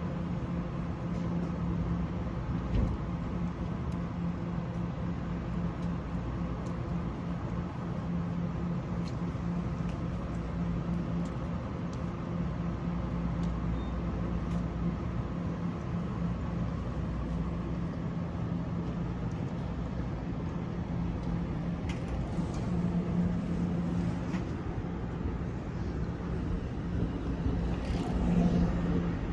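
Steady low mechanical hum over a constant rumble from a vehicle, swelling slightly twice in the second half.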